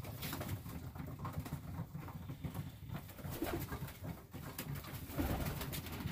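Domestic pigeons cooing in a loft, a continuous low murmur with scattered faint ticks.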